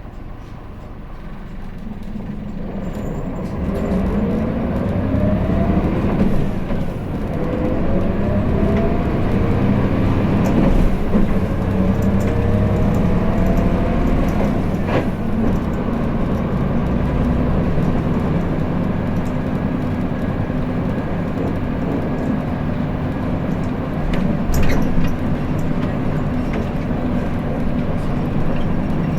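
Hino Blue Ribbon City (KL-HU2PMEA) city bus heard from inside the cabin, pulling away and accelerating. Its engine note climbs several times over the first half as it works up through the gears, then it settles into steady running. Sharp knocks sound about halfway through and again near the end.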